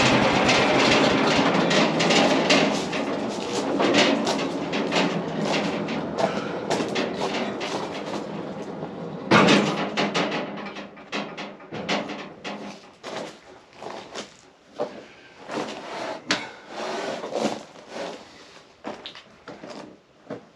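Irregular wooden knocks and clatter as freshly sawn elm boards are handled on a bandsaw mill, with one loud knock about nine seconds in. A hiss fades away over the first half.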